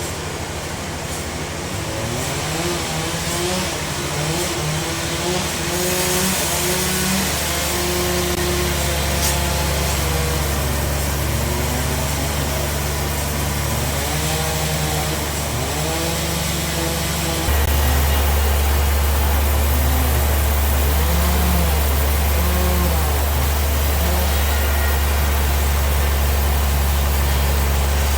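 Sawmill bandsaw machinery running steadily under load, with a deep hum. The hum turns suddenly louder about two-thirds of the way through.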